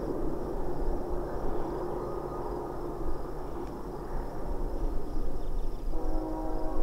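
Distant diesel freight train running across the valley with a low rumble, and a locomotive horn starting to sound about six seconds in.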